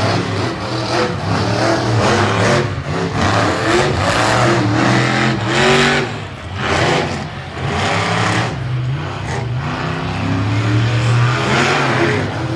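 Monster truck engine running hard and revving, its pitch rising and falling, with a brief drop in loudness about six seconds in.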